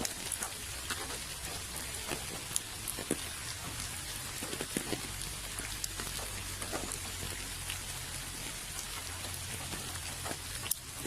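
Steady rain falling, with many separate drops ticking sharply on a surface over an even hiss.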